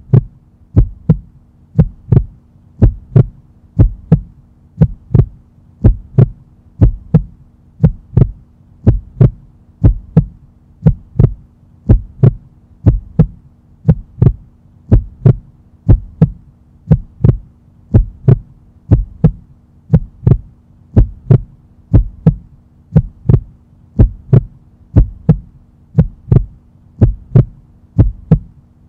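Heartbeat sound effect beating steadily, about one and a half beats a second, over a steady low hum; it fills a workout rest break.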